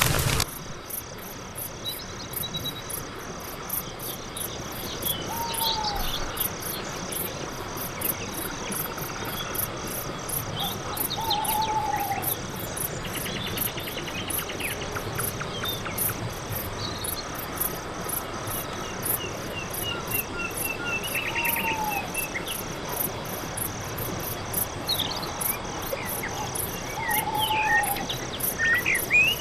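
Night forest ambience: crickets chirping in a steady rapid high pulse, with a few scattered bird chirps and a short arched call near 1 kHz repeated four times, several seconds apart.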